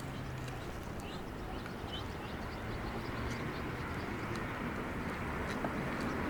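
Steady outdoor background rumble of distant traffic that grows a little louder near the end, with a few faint short bird chirps.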